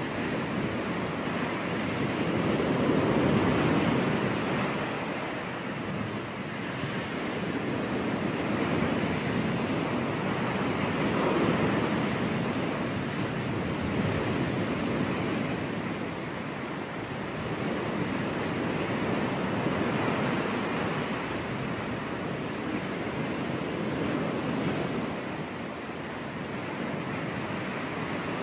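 Ocean surf washing onto a beach: a steady rushing wash that swells and eases about every eight seconds as waves break.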